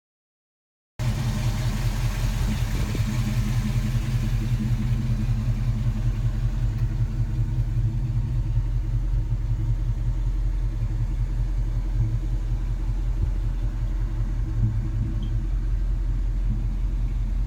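Chevrolet 350 small-block V8 of a 1972 K10 pickup running steadily through its dual exhaust, a low, even rumble with no revving; it cuts in suddenly about a second in.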